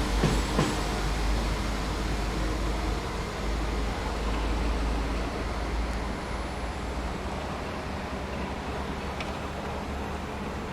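Class 33 diesel locomotive running with a low engine rumble, a couple of short clicks at the start; the rumble drops away about two-thirds of the way through.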